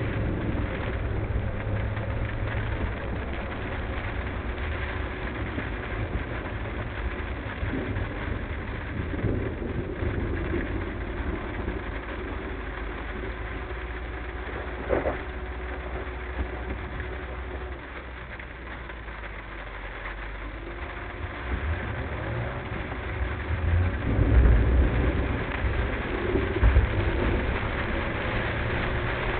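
Car driving, a steady low engine and road rumble. There is a sharp click about halfway through, and a few louder low thumps near the end.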